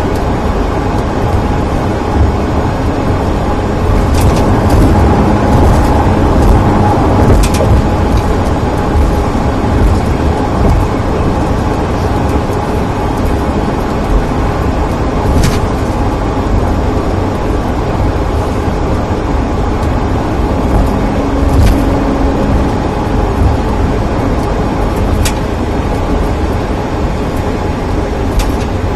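Steady road and engine rumble heard inside a moving car's cabin, with a few brief clicks and rattles.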